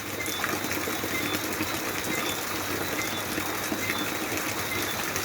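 Steady night rain falling, with short high chirps of crickets repeating every second or so.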